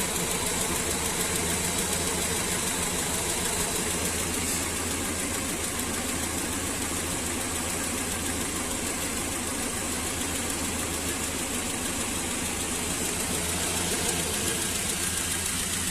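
GAZelle van engine idling unevenly, with a drumming knock that the driver places somewhere at the top of the engine; the cause is not yet known.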